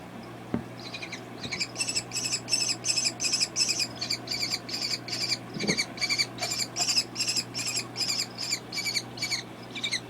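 Baby kestrel giving a long run of shrill repeated calls, about three a second.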